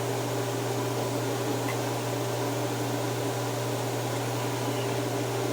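Microwave oven running with a steady, even hum, heating food to melt the cheese.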